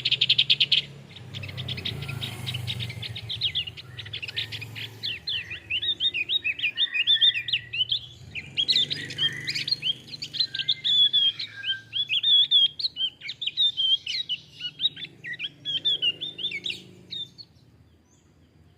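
Male Javan grey-throated white-eye (opior Jawa) singing: a fast chattering song of quick rising and falling notes that opens with a rapid trill, over a low steady hum. The song stops near the end.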